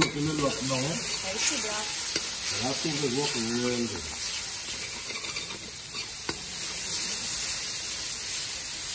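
Curry paste sizzling as it fries in hot oil in a cast-iron pot, stirred and scraped with a metal spoon.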